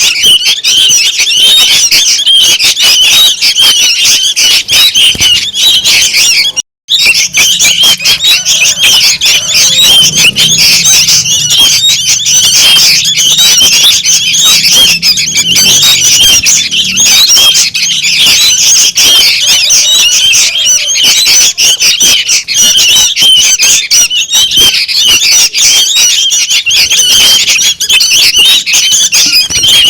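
Young sooty-headed bulbuls calling noisily: a dense, unbroken high chatter of many overlapping short calls, with a brief break about seven seconds in.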